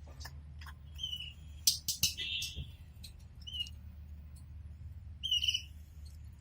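Pet canaries giving short, scattered chirps and call notes rather than a continuous song, with a few sharp ticks among them. The loudest calls come about two seconds in and again about five seconds in.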